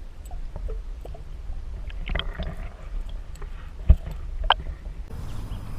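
Scattered clicks and knocks of gear being handled in a kayak while a hooked trout is brought to the net, with one solid thump against the boat about four seconds in.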